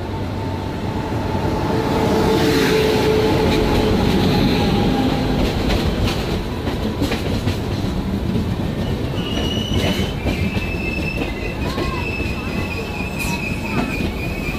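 An express of LHB coaches running close alongside on the next track, heard from the doorway of a local EMU: heavy rolling rumble and wheel clatter that swells about two seconds in as it draws level. From about nine seconds in, thin high wheel squeal rides over it.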